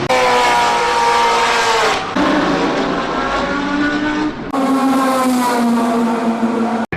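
Historic racing sports car engines at high revs, in three short pieces joined by hard cuts about two and four and a half seconds in. Each piece holds a steady, high engine note; in the first it sinks slightly in pitch, and the sound drops out briefly near the end.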